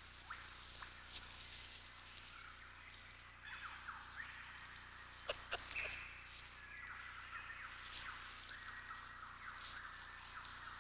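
Faint bird calls and chirps, many short overlapping calls, with a couple of sharp clicks about five and a half seconds in.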